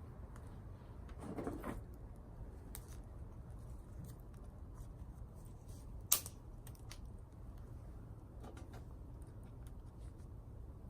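Scattered light clicks and knocks over a steady low rumble, with a brief rustle about a second and a half in and one sharp snap about six seconds in.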